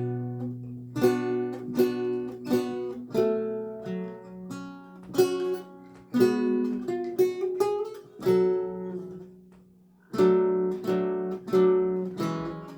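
Solo lute music: a slow piece of plucked single notes and chords, each ringing and fading away. The sound dies down for a moment about ten seconds in, then a new phrase starts.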